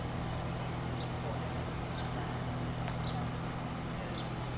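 Railway station ambience: a steady low hum over a noisy background, with short, faint high chirps about once a second.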